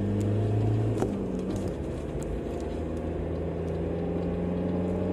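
A car running with a steady engine drone and a short click about a second in.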